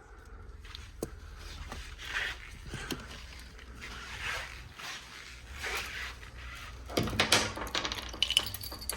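Hands rummaging and handling small parts inside a car's interior: scattered clicks and rustling, then a quick run of clattering clicks and rattles near the end.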